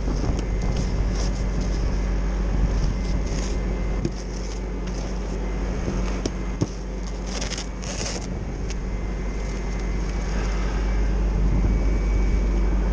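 A vehicle engine running steadily, a constant low hum under heavy low rumble, with scattered clicks and crackles over it.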